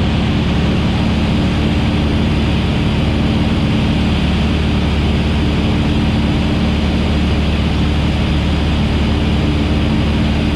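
Van's RV-8 single-engine propeller airplane's engine and propeller running steadily in level flight at pattern speed, an even drone with no change in pitch or loudness.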